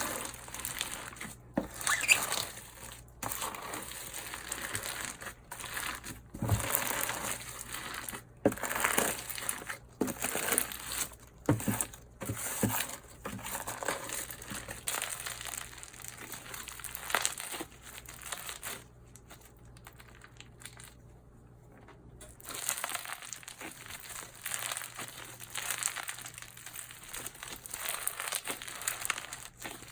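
Hands kneading and stretching slime, giving dense, irregular crackles and clicks. Partway through it goes quiet for about three seconds, then the crackling starts again.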